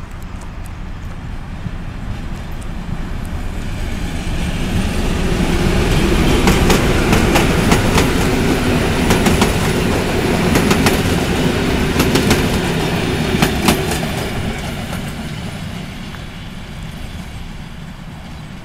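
Passenger train of double-deck coaches hauled by a diesel locomotive passing close by. A rumble builds, then the wheels clack over rail joints for about eight seconds, and it fades as the train moves away.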